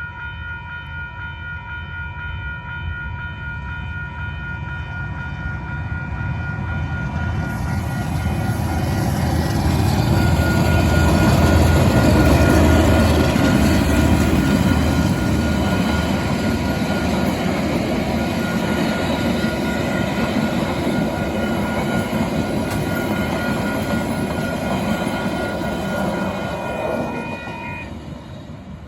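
Passenger train passing close by: the locomotive's rumble and the wheel noise build to a peak about a third of the way through, then ease off and fade near the end. Steady high ringing tones run underneath and stop near the end.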